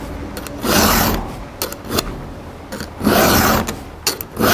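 Chainsaw file rasping across a dinged chain cutter tooth in two strokes, about two seconds apart, with light clicks between them. The strokes are smoothing out as the file cuts past the damage on the tooth.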